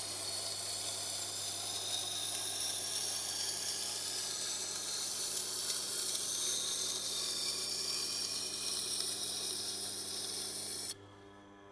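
Knife edge being ground on a Tormek's water-cooled grindstone, a steady wet hissing grind over the machine's low motor hum, raising a burr along the edge. It cuts off suddenly near the end.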